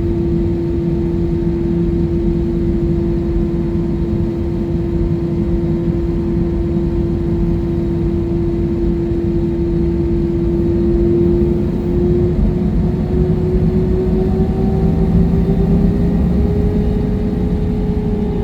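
Jet airliner's engines heard inside the cabin: a loud, steady rumble with a clear whining tone that slowly rises after about twelve seconds, joined by a second, higher tone near the end.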